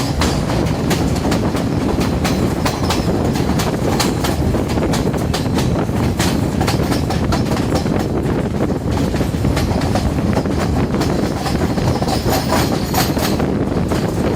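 Diesel multiple-unit express train running on the rails: a steady low rumble with many sharp, irregular clicks of the wheels over the track.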